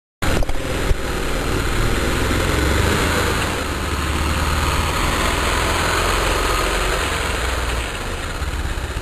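Motorcycle engine running steadily with a low rumble, cutting in abruptly a moment in.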